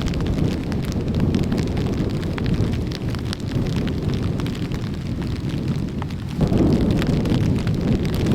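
Strong wind blowing on the microphone, with hard rain striking as many separate drops; the wind grows louder about six seconds in.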